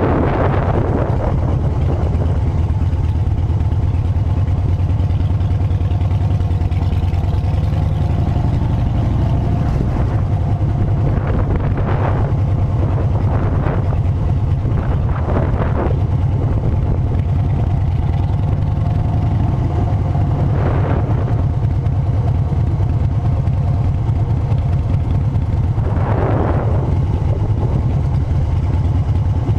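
Harley-Davidson motorcycle engine running steadily with a low drone, with a few brief swells of passing noise over it.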